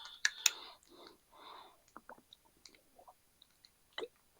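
A man drinking close to the microphone: a couple of soft breaths or sips, then small mouth clicks and swallows, with a sharper click about four seconds in.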